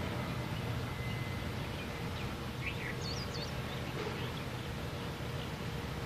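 Steady low outdoor rumble with a few quick, high bird chirps about two to three and a half seconds in.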